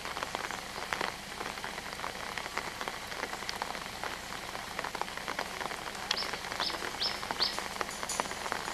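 Steady rain pattering, with a few short, high bird chirps about six seconds in.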